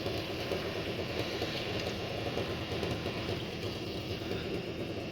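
Pulling garden tractor's engine running steadily.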